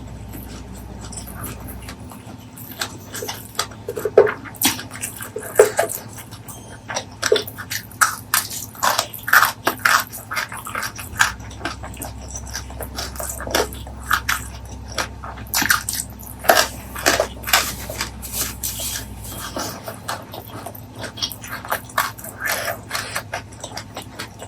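Close-miked chewing and mouth sounds of a person eating, with many sharp, irregular wet clicks and smacks.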